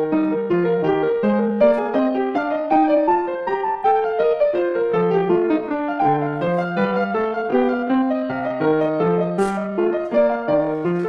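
Background piano music: a steady run of flowing notes with no break.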